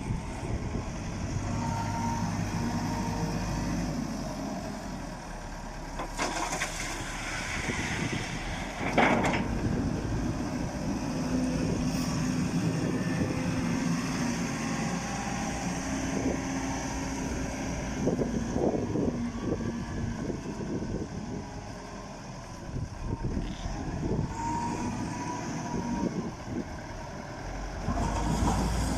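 A vehicle engine running, with scattered knocks and clatter and a loud burst of noise about nine seconds in.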